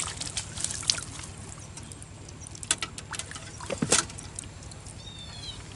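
Water splashing and dribbling in irregular bursts as a hooked soldier river barb is played at the surface, with the sharpest splashes about 4 seconds in. A short high chirp sounds near the end.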